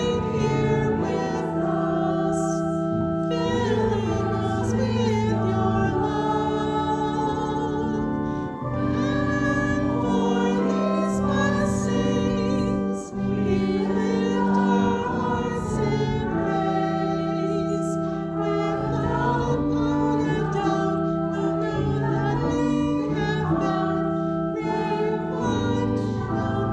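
Church choir singing a slow song over long held chords.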